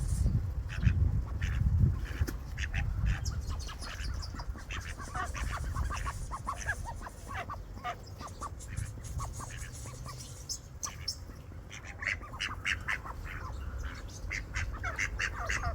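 Domestic ducks quacking in many short calls, mixed with other birds calling, thickest near the end. A low rumble sits under them in the first couple of seconds.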